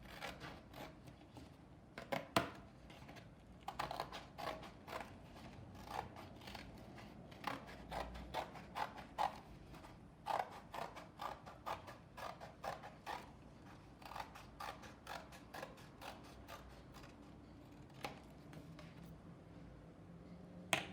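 Scissors snipping through cardboard, a run of irregular crisp cuts as a circle is cut out.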